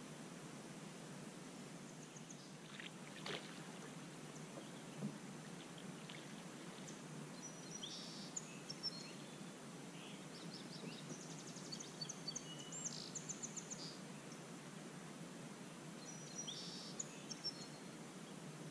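Small birds chirping and trilling in short high bursts, several times, over a steady faint background hiss. A couple of soft knocks sound in the first few seconds.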